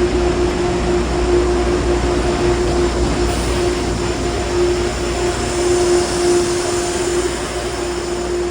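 A train running steadily: a low rumble under a constant hum.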